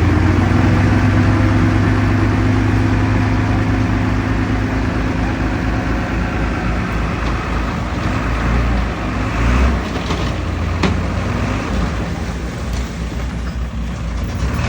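Heavy diesel engine of earthmoving machinery running with a steady low drone that eases somewhat after about six seconds. There are a couple of short knocks about ten seconds in.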